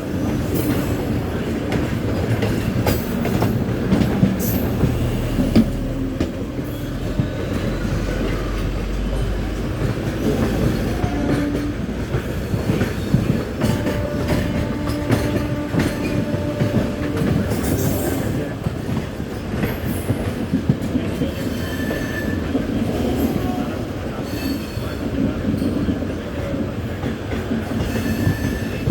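A goods train running past, its wagon wheels clattering over rail joints with brief squeals of wheel on rail.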